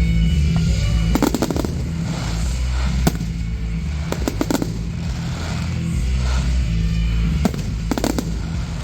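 Fireworks display: firework bangs and crackling bursts coming in clusters every second or two, over loud music with a heavy steady bass.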